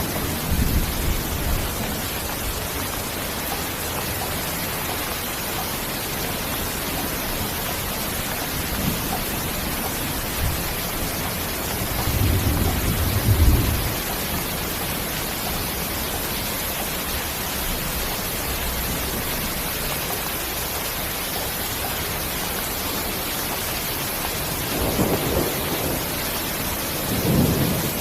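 Steady heavy rain, with low rolls of thunder rumbling under it: a stronger roll around the middle and two shorter ones near the end.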